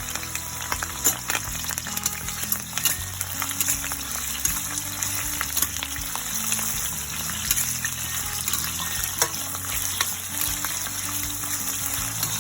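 Onions frying in hot oil in a frying pan: a steady sizzle with frequent small crackles.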